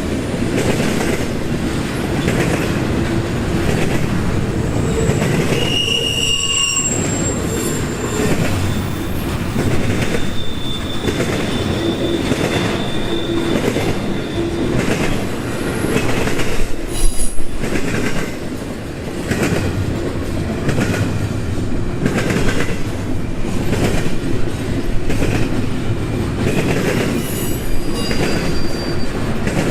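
Union Pacific intermodal freight cars rolling past, wheels rumbling and clattering over the rail joints, with a few brief high-pitched wheel squeals.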